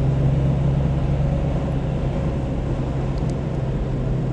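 Steady engine drone and tyre noise of a car driving along a road, heard from inside the cabin.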